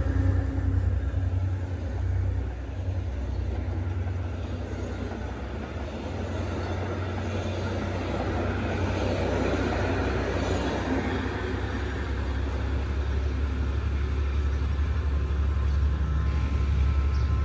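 Passenger coaches of a diesel-hauled train running past at speed: a continuous rumble and clatter of wheels on the rails, over a steady low rumble.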